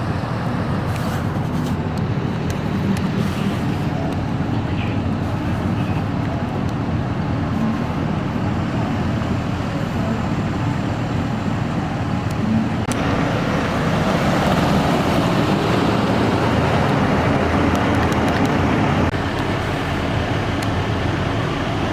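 Emergency vehicles driving past with a steady engine and road-noise rumble. It grows louder from about two-thirds of the way in as a vehicle passes close, then drops back.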